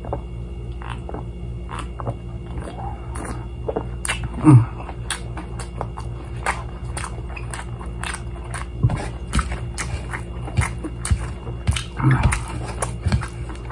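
Close-up eating sounds of crispy fried chicken: biting and chewing with many small crunchy clicks and mouth noises. About four seconds in there is one short, loud throat sound from the eater. A steady low hum runs underneath.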